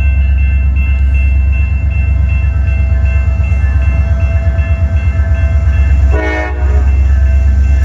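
CSX freight train rolling past close by: a heavy, steady low rumble of the locomotive and cars, with a pulsing beat in the loudness and thin steady high tones over it. About six seconds in, a brief pitched sound cuts through.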